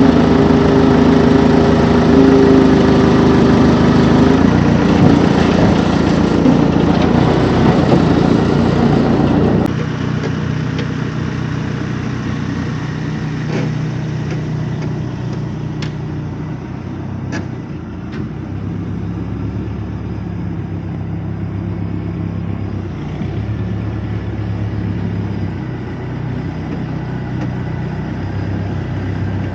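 A vehicle engine running hard and loud, then easing off suddenly about ten seconds in to a quieter, steady low run.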